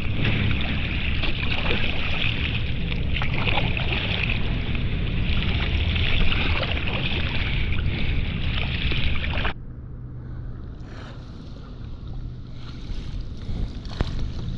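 Kayak paddling on open water: splashing paddle and water noise with wind buffeting the microphone. About two-thirds of the way in it drops abruptly to a quieter wash of water with a low steady hum and a few light knocks.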